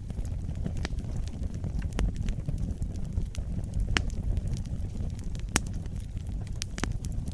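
Wood fire burning: a steady low rumble of flames with irregular sharp crackles and pops, the loudest a little past halfway.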